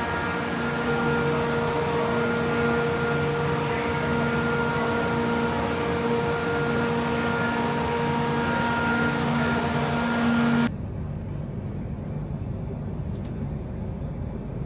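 Passenger train running, heard from inside: a steady hum with several held tones over a rumble. About eleven seconds in it cuts off abruptly to a quieter rumble with a few faint clicks.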